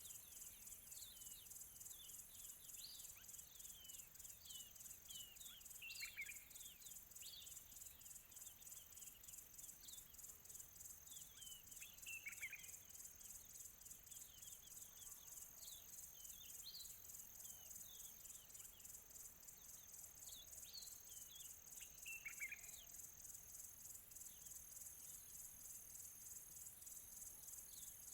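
Faint countryside ambience: crickets chirp in a steady, evenly pulsing high-pitched trill, while birds give scattered short, downward-sweeping chirps every few seconds.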